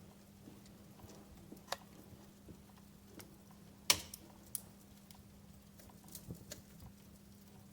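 Wood fire crackling: irregular sharp pops and snaps, the loudest about four seconds in, over a faint steady low hum.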